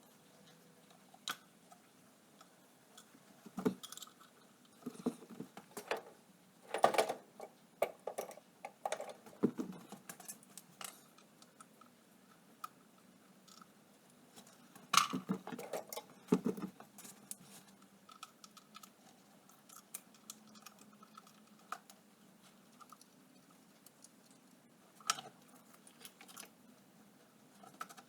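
Irregular clinks, clicks and clatters of hand tools and small metal parts being handled during an ATV teardown. They come in bunches, busiest in the first third and again around the middle, with quieter gaps between.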